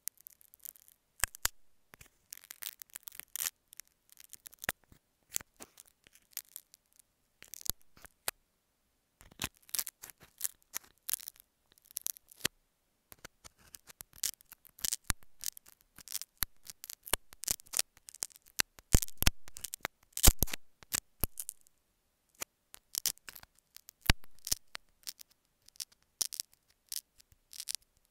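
Metal dental scaler scraping and picking at an earphone microphone up close: irregular sharp clicks and short scratchy strokes, thickening into denser scraping a couple of times.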